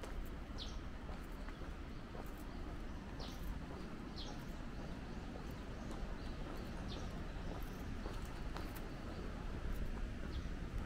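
Small birds giving a few short, high, falling chirps now and then over a steady low outdoor rumble, with faint footsteps ticking along.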